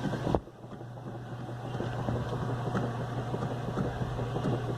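Whirlpool direct-drive top-load washer running after repair on a new motor and capacitor, with a steady motor hum. A click comes about a third of a second in, then the washer's working noise builds and holds steady. The machine is working normally, no longer stalling with a buzz.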